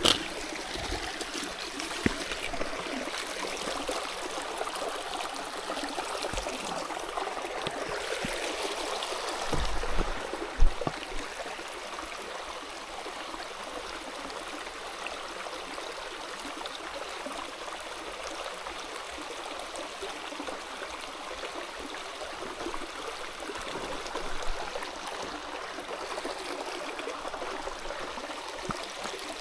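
Stream water running steadily over rocks, with a few brief low knocks about ten seconds in.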